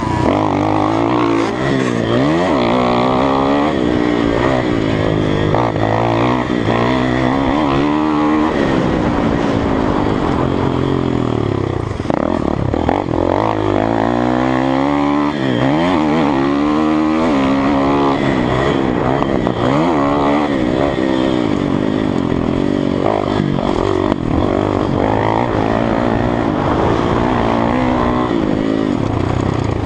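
Kawasaki KX450F motocross bike's single-cylinder four-stroke engine being ridden hard. It revs up and drops back over and over as the rider works the throttle through jumps and corners, heard close from an onboard camera.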